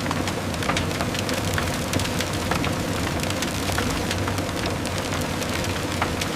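Sugarcane mill rollers running with a steady low hum, over a dense, irregular crackling of cane being crushed. The sound stops abruptly at the end.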